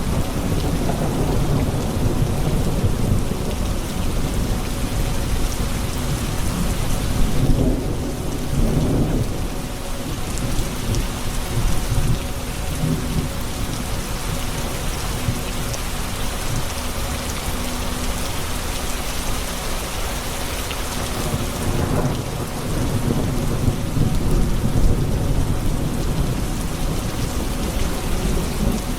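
A thunderstorm: steady heavy rain on surfaces with low rolling thunder underneath. The thunder rumble swells over the first several seconds and again near the end.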